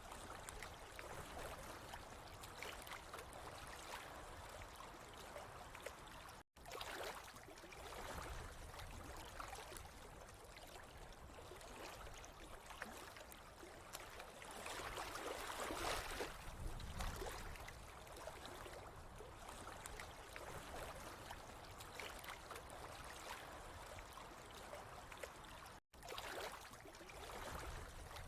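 Steady trickling, gurgling water, swelling a little in the middle and broken twice by an abrupt split-second silence, about six seconds in and near the end.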